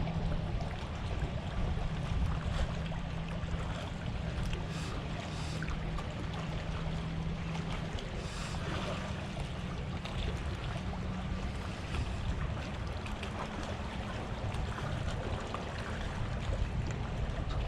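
Steady waterside wash of water and wind rumble on the microphone, with a low steady motor hum underneath that shifts pitch slightly about eight seconds in.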